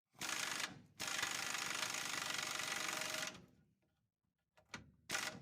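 Impact wrench hammering as it drives a torsion-bar adjuster bolt in on a 1992 Chevy 4x4 pickup: a short burst, then a steady run of a little over two seconds that stops as the bolt goes all the way in. A single faint click follows near the end.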